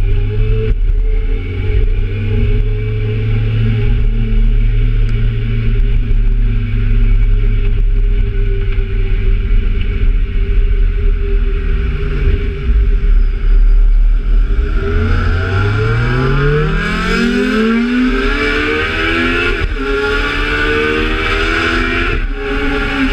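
Kawasaki Z750 motorcycle engine holding a steady note, then, about two-thirds of the way in, accelerating hard: its pitch climbs, drops back at a gear change and climbs again, with rising wind rush.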